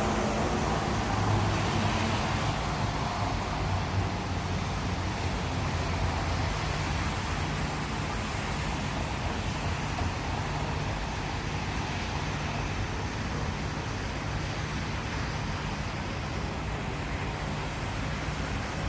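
Steady road traffic, with engines humming and tyre noise on rain-wet roads; a vehicle passes close by near the start.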